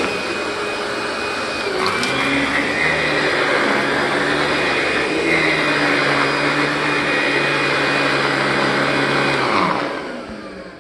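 Dual-motor upright vacuum cleaner running steadily with a whine while going over entry carpet mats. Near the end it is switched off and the motor winds down, falling in pitch.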